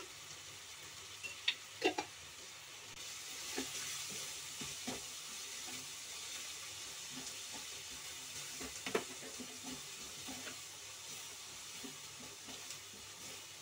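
Chopped onions and green capsicum sizzling in butter in a nonstick kadhai while being stirred with a wooden spatula, which scrapes and knocks against the pan now and then. The sizzle grows a little louder about three seconds in.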